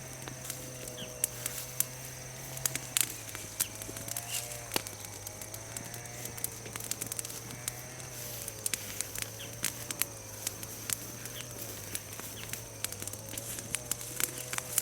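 Bonfire of green chestnut wood and leaves crackling, with irregular sharp pops scattered throughout and a faint wavering hum underneath.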